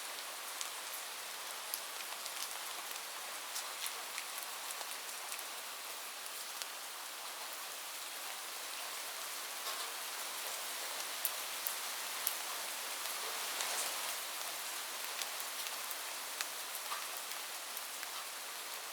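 Steady rain falling on a roof, with many separate drops ticking through an even hiss.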